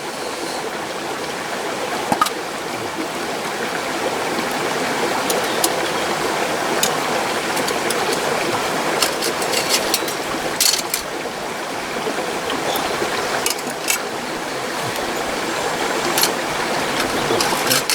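Mountain stream rushing steadily, with scattered brief clicks and knocks.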